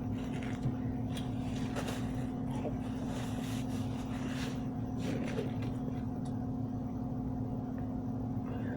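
Steady background hum with a constant low tone, joined by a few faint, soft short sounds.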